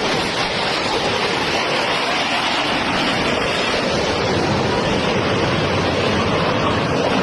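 Steady, loud rushing noise of wind and tyre roar from a moving vehicle, with no clear engine note or impact.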